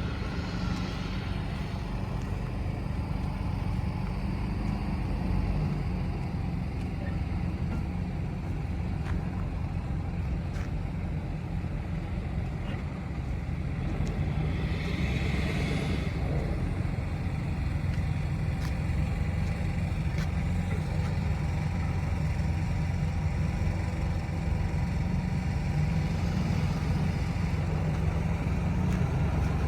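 Steady low engine-and-road rumble of a running motor vehicle. A brief hiss rises and fades about halfway through.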